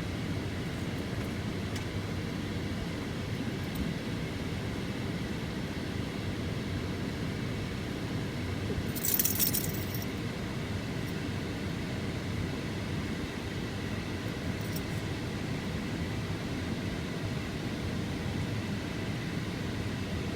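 Steady low rumble of a vehicle on the move, with a brief high rattle about nine seconds in.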